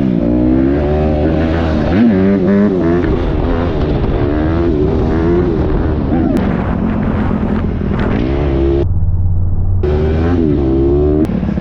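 Dirt bike engine revving, its pitch rising and falling repeatedly as the throttle is worked. For about a second, roughly nine seconds in, the sound turns muffled before returning.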